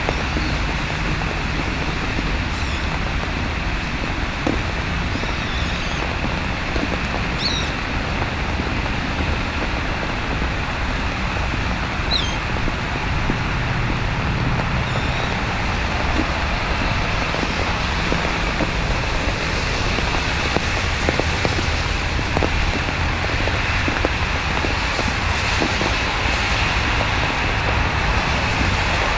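Steady hiss of falling rain and sleet over a low rumble of city traffic, with a few short high chirps in the first half.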